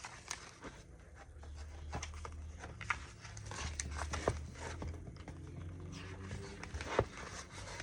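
Sheets of planner stickers being handled and set down: light paper rustling with scattered small taps and clicks, over a low steady hum.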